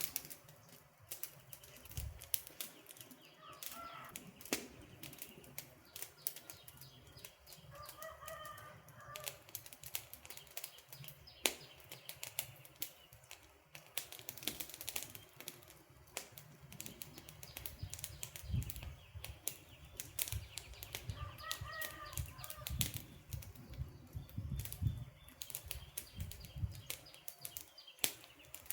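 Wood campfire crackling, with frequent sharp pops and snaps. A bird calls briefly in the background three times, about 4, 8 and 22 seconds in.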